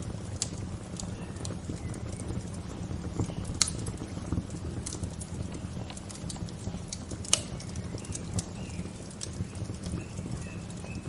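Wood fire crackling with irregular sharp pops and snaps, the two loudest about three and a half and seven seconds in, over a steady low rushing background. Faint bird chirps come in now and then, mostly near the end.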